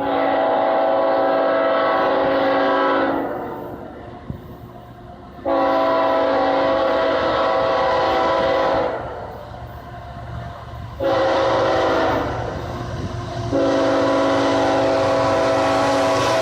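Diesel freight locomotive's air horn sounding the grade-crossing signal: long, long, short, long, each blast one multi-note chord. A low rumble from the train runs underneath.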